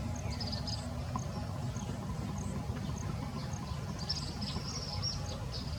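Outdoor ambience: short high chirps and twitters, busiest about four seconds in, over a low steady rumble.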